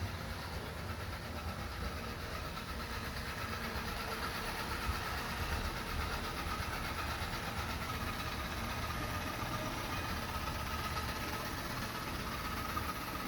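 Yeedi Vac 2 Pro robot vacuum running as it drives back to its charging dock: a steady motor whir with a faint constant whine over a low rumble.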